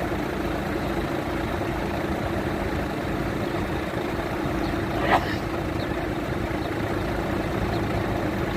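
Boom truck's diesel engine running steadily at idle, with one brief sharp higher-pitched sound about five seconds in.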